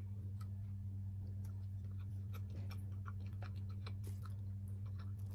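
Close-up eating sounds: chewing, with scattered small clicks and ticks of fingers picking through rice and seafood, over a steady low hum.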